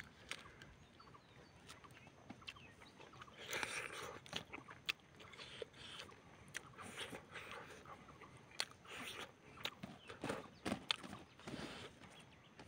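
Faint mouth sounds of a person eating rice and chicken by hand: irregular wet chewing, lip smacks and clicks, busier about four seconds in and again between about eight and eleven seconds.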